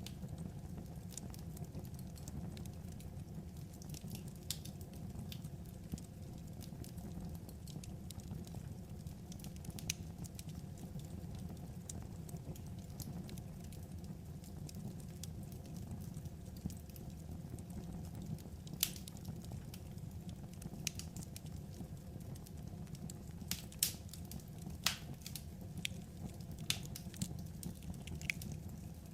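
Wood fire crackling: irregular small pops and snaps over a steady low rumble, with a few louder pops in the second half.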